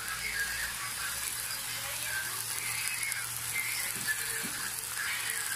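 Water spinach sizzling in a hot wok as the leaves are turned with a spatula: a steady even hiss over a low hum, with two faint knocks about four seconds in.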